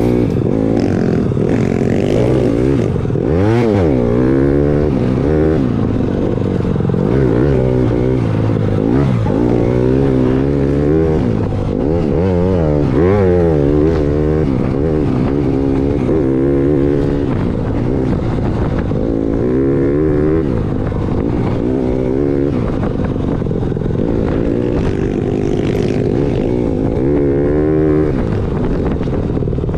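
Dirt bike engine being ridden, revving up and falling back again and again as the rider works the throttle.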